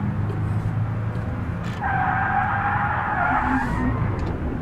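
Car engine running under way, with a tyre squeal lasting about two seconds in the middle.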